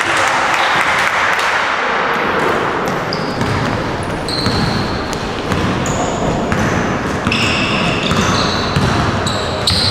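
Basketball game in an echoing gym: sneakers squeak sharply on the court, in clusters at the start and again in the last few seconds. A ball bounces and the players and bench talk and call out under the squeaks.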